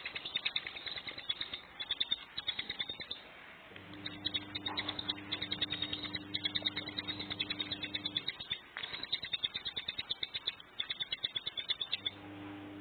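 Ciblek gunung (a mountain prinia) giving its rapid-fire 'tembakan' song: several runs of fast, sharp ticking notes, about eight to ten a second, broken by short pauses. A steady low electrical hum sounds under it for a few seconds in the middle.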